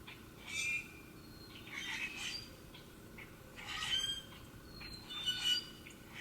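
A bird giving four short, harsh squawking calls about a second apart.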